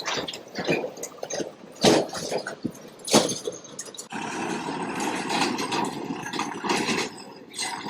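Heavy truck on a rough, broken road: irregular clanks and rattles for about four seconds, then a steadier, continuous vehicle noise.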